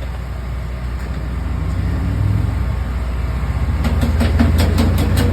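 A steady low engine rumble that grows louder partway through, with a quick run of sharp clicks near the end.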